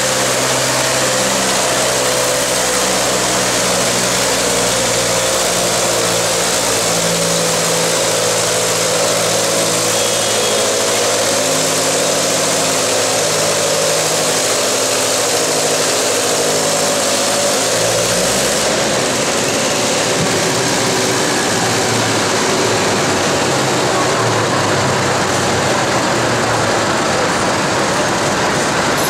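Antique tractor's engine running hard under load during a tractor pull, loud and continuous with its pitch shifting as it works. The sound changes abruptly about two-thirds of the way through.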